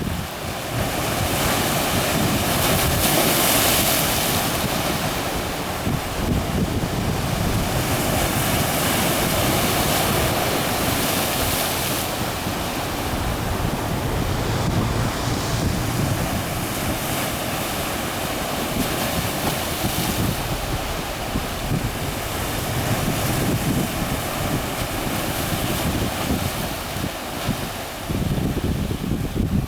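Sea waves washing against concrete tetrapod breakwater blocks, a steady rush of surf that swells louder a few times, with wind buffeting the microphone.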